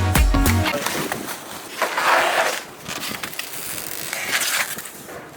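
Background music with a beat cuts off under a second in, then adhesive tape being peeled and torn, with the rustle and scrape of packaging, in two louder patches.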